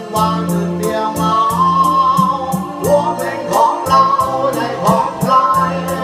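A song with a sung vocal line over a band backing: bass, guitar and a steady beat with a cymbal tick about three times a second.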